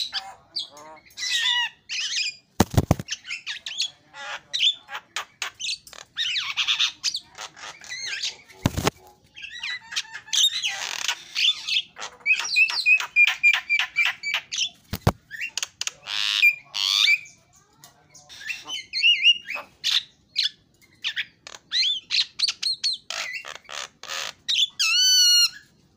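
Javan myna (jalak kebo) calling in a long, varied run of harsh squawks, rapid clicking notes and whistles, with a few sharp knocks among them.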